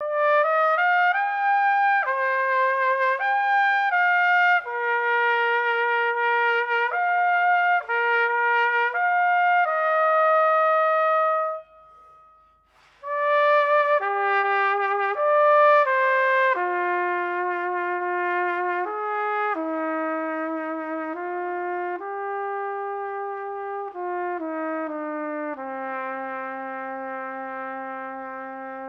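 Solo trumpet playing a slow melody in two phrases, with a short breath pause near the middle. The second phrase steps downward and ends on a long held low note that fades out.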